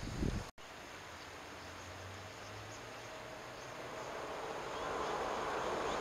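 Shinano Railway 115 series electric train approaching: the noise of wheels on rail grows steadily louder over the last two seconds, over a faint steady outdoor background.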